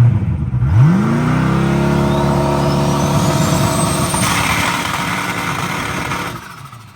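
Drag car's V8 engine revs up about a second in and is held at high rpm for about five seconds, with a faint high whistle rising and then falling, before the engine drops off sharply near the end.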